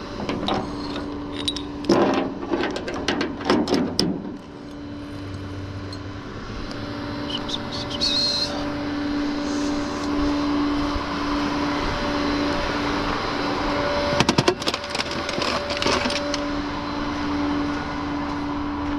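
Tow truck running with a steady hum that comes and goes, while tie-down gear rattles and clanks in a few bursts, near the start and again later on.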